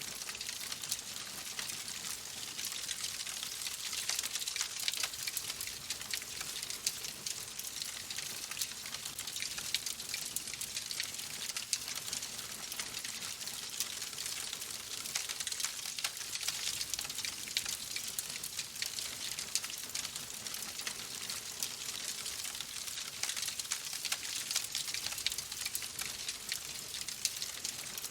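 Wood fire crackling steadily: a dense patter of small pops and snaps over a soft hiss.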